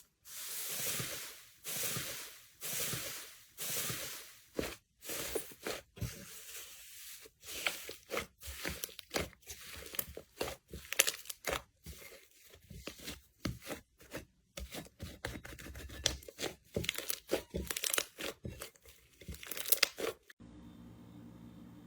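Slime being worked by hand, crackling and popping: first a few long crackly swells about a second and a half apart, then a quick run of short pops and snaps.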